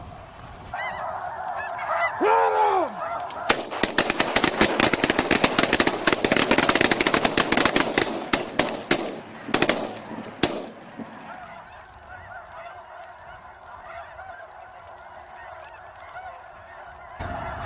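A flock of geese honking continuously. From about three and a half seconds in, a rapid string of sharp shotgun cracks lasts roughly seven seconds and is the loudest part. After it the honking carries on.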